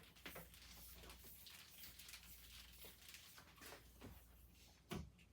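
Near silence in a small room: faint rustling and small handling noises, with one short soft knock near the end.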